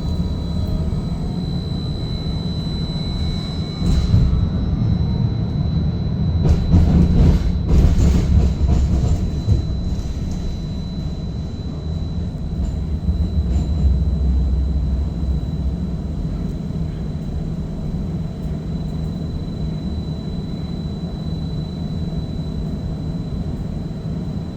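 Seattle First Hill streetcar (Inekon Trio) running, heard from inside the car: a steady low rumble of the wheels on the track with a thin constant high whine. There is a stretch of louder rattling and knocks between about four and ten seconds in.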